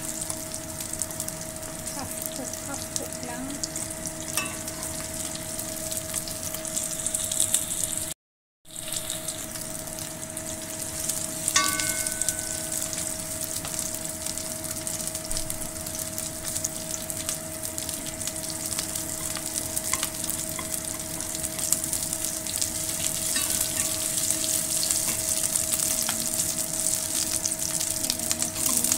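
Onion and garlic sizzling and crackling in hot oil in a pot as they are sautéed, with a steady hum underneath. The sound cuts out completely for a moment about eight seconds in.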